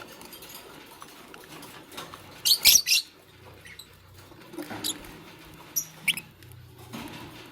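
Fischer's lovebird giving short, sharp, high-pitched chirps: a quick run of several about two and a half seconds in, then a few single chirps later.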